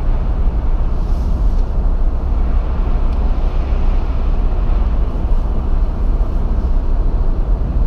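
Steady low rumble of a car heard from inside its cabin, engine and road noise without any distinct events.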